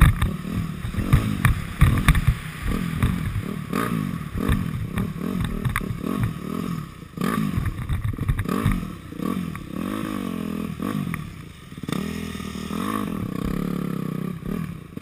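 Dirt bike engine being ridden hard, its pitch rising and falling again and again as the throttle is worked, with rattles and knocks from the bike over rough ground. Near the end the engine holds a steadier note.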